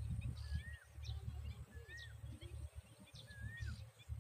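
A bird calling: three short whistled notes that rise and fall, about one and a half seconds apart, with fainter high chirps between them, over a steady low rumble.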